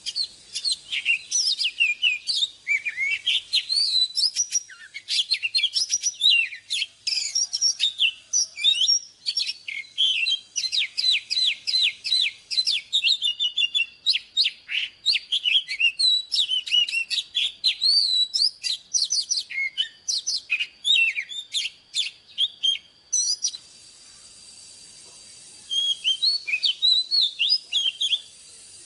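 Oriental magpie-robin singing a fast, varied run of clear whistles and chirps. The song breaks off a few seconds before the end, then resumes in a short final phrase.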